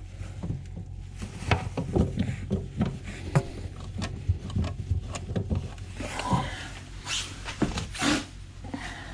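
Irregular clicks, taps and knocks of plastic sink waste pipe fittings being handled and fitted, over a low steady hum.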